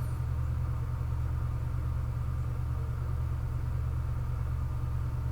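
A steady low mechanical hum with several even low tones, unchanging throughout.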